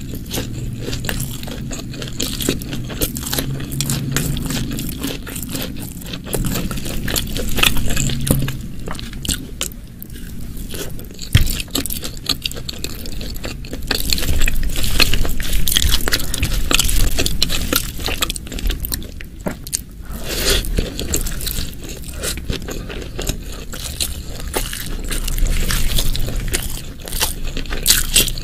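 Close-miked eating sounds: chewing and biting food, with many small irregular mouth clicks.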